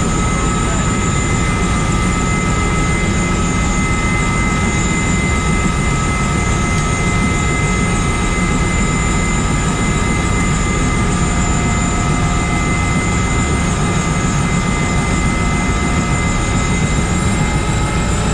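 Bell UH-1 Huey helicopter running: a steady, loud roar of the turbine and rotor with a high turbine whine over it. Near the end the whine rises slightly in pitch.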